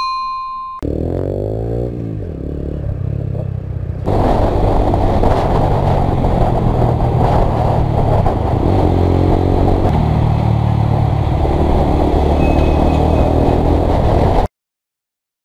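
Honda CBR125's single-cylinder engine running under way, with heavy rushing noise over it. It opens with a steady electronic beep that stops under a second in, then the engine revs fall away, and near the end the sound cuts to silence for about a second.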